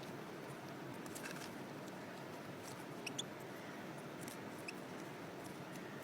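European goldfinches feeding at sunflower seeds: scattered small clicks and cracks of seeds being husked, and a few faint short chirps about three seconds in and again near the end, over a steady hiss.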